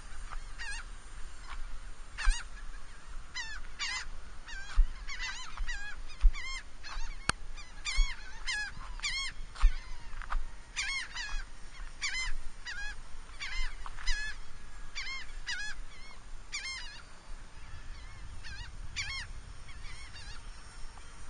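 Geese honking: a long run of short, separate honks, thinning out near the end, with a few low bumps underneath.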